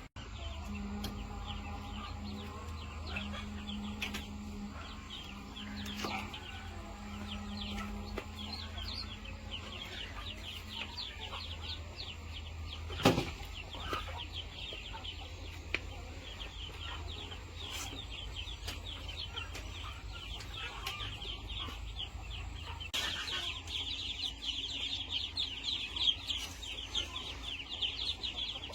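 A flock of chickens clucking, a dense run of short high calls that grows thicker and louder in the last few seconds. A single sharp knock about 13 seconds in.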